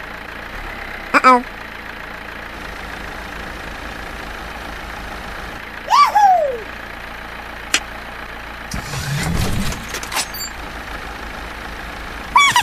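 Cartoon car engine sound effect running steadily. Short high-pitched cartoon voice cries fall in pitch about a second in and about six seconds in, and again at the end. A louder low rumble comes up around nine seconds.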